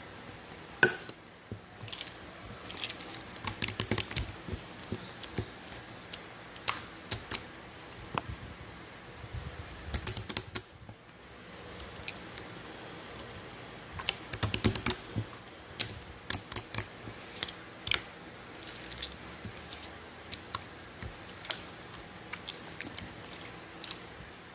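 Irregular clusters of small, sharp clicks and taps, sounding like typing, over a steady background hiss.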